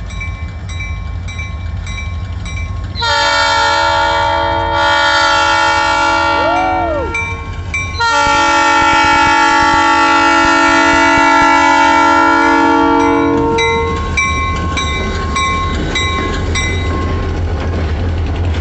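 Diesel locomotives rumbling as they approach, sounding a multi-chime air horn in three blasts, the last and longest from about 8 to 14 seconds in. A bell dings steadily throughout.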